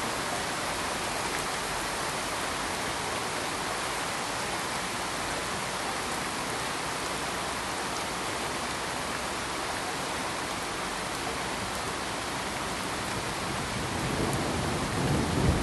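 Steady hiss of rain, with a low rumble of thunder starting to build near the end.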